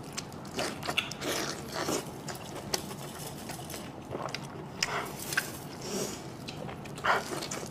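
A person chewing and biting food close to the microphone, with irregular short mouth clicks and smacks.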